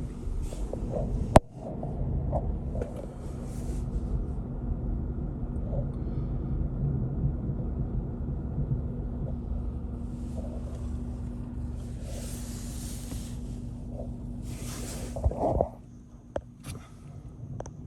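Steady low rumble of road traffic on a snowy highway, with brief hisses of vehicles passing about twelve and fifteen seconds in. There is a sharp click about a second and a half in, and the rumble drops off suddenly near the end.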